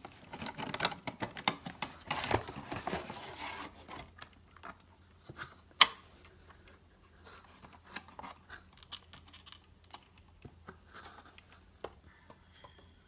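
Product packaging being handled and opened: a few seconds of crinkling, tearing rustle, then scattered light clicks and knocks, with one sharp click about six seconds in.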